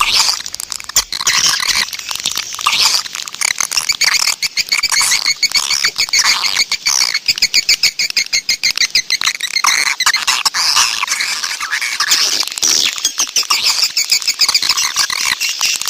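Swiftlet calling-sound recording: a dense, unbroken twittering of many swiftlets, rapid chirps and clicks. It is the kind of lure track that is played from speakers to draw swiftlets into a nesting house.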